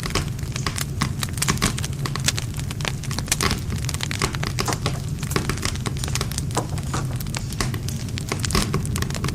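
Wood campfire burning, with dense irregular crackling and popping of the burning wood over the steady low rumble of the flames.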